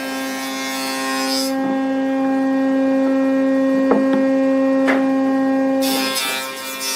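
Wood lathe running with a steady, even-pitched hum. A hiss over it for the first second and a half and again near the end fits a tool cutting the spinning wood.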